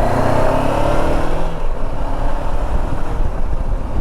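2014 Honda CB500X's parallel-twin engine pulling away, its pitch rising for about a second and a half, then giving way to a steady rush of wind and road noise.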